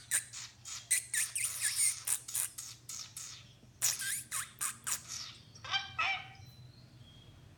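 A bird calling in a fast run of sharp, downward-sweeping squawks, about four or five a second, that pauses briefly and starts again. Near the end come a few lower, buzzier calls, after which it falls silent.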